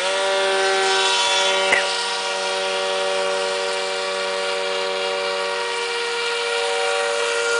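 Homemade styrofoam RC speedboat motors running flat out with a steady high-pitched whine; a lower second whine drops out about a second in.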